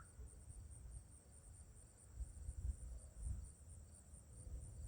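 Crickets chirping in a faint, steady, high-pitched pulsing trill, over a low, uneven rumble.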